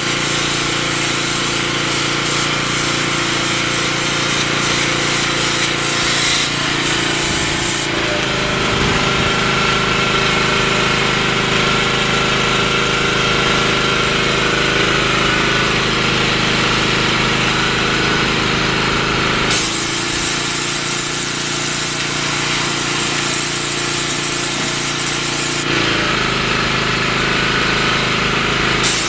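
Pressure washer running, its motor humming steadily under the hiss of the high-pressure water and sand spray from a sand-injection nozzle. The sound changes abruptly about 8, 19 and 26 seconds in.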